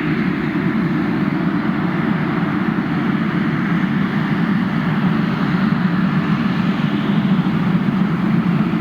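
Jet airliner engines running, a steady loud rush of noise that swells slightly.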